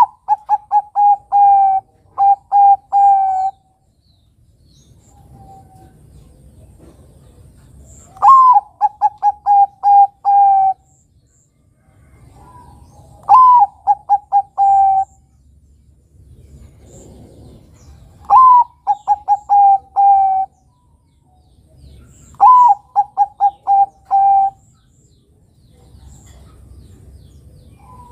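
Bangkok-type zebra dove (perkutut) singing its cooing song. There are five phrases, each a rising first note followed by a quick run of five or six short coos, repeated every four to five seconds.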